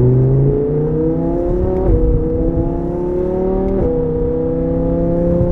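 The Audi R8 V10 plus's naturally aspirated 5.2-litre V10, breathing through a Capristo valved exhaust, heard from inside the cabin as the car accelerates hard. The engine note climbs steadily in pitch, drops suddenly at two quick upshifts of the seven-speed S tronic gearbox, and climbs again after each.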